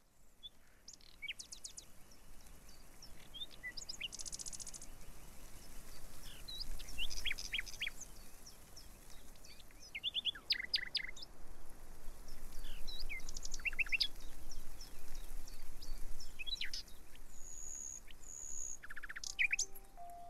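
Birds singing and calling: a mix of short chirps, brief whistled notes and rapid trills, over a faint low rumble.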